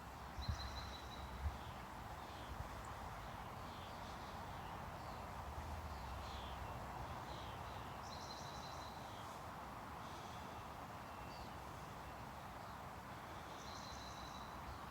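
Small birds chirping faintly: short high calls that come back every several seconds, with quick chirps in between, over steady outdoor background noise. A couple of soft thumps sound near the start.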